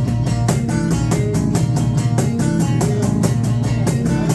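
Live band playing a song's instrumental passage: strummed guitar in a steady rhythm, with sustained notes underneath.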